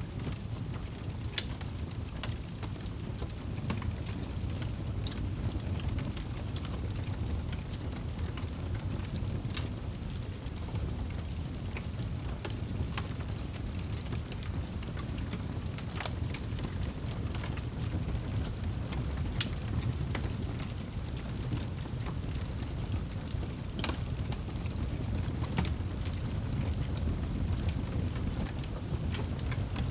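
Crackling fire, with sharp irregular pops every second or two over a steady low rumble of fire and rain.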